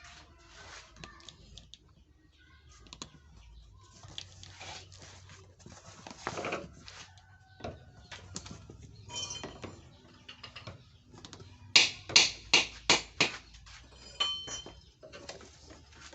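Handling noises: scattered clicks and rustling, then about three quarters of the way through a quick run of about six sharp taps or clinks in a second and a half.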